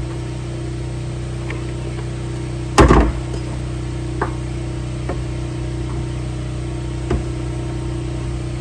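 A steady mechanical hum, like a motor or engine running, with one loud knock about three seconds in and a few light taps after it.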